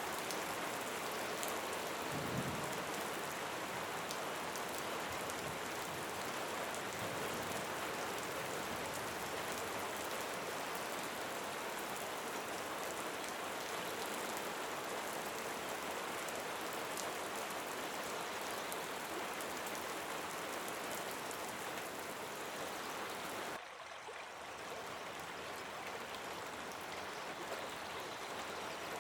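Steady rain falling, an even hiss of drops, with a sudden dip in level late on before it builds back.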